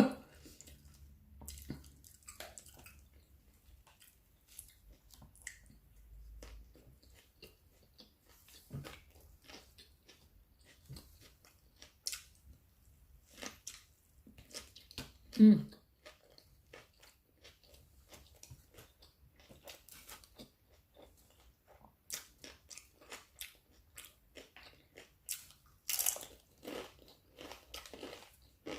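A person chewing and biting food close to the microphone: soft, irregular wet mouth clicks with occasional crunches. There is a louder short sound about fifteen seconds in and another about twenty-six seconds in.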